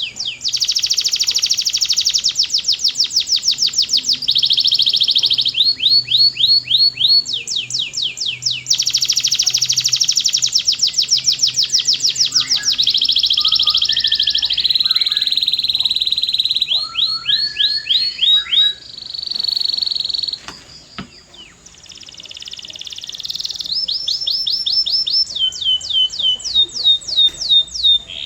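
Canary singing a long, high-pitched song of rapid trills: runs of quickly repeated falling notes alternating with steadier rolls, broken by a short lull about three quarters of the way through before it starts again.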